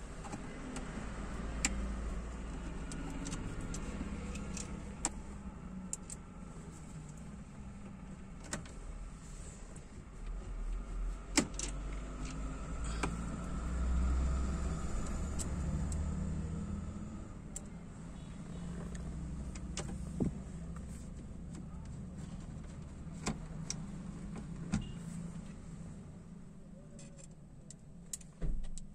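Low, steady engine rumble heard inside a small car's cabin, with scattered light clicks and knocks over it.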